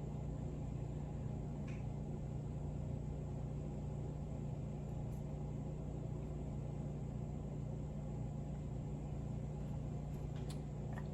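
Steady low hum of a running fan or motor, with a few faint light clicks of small parts being handled.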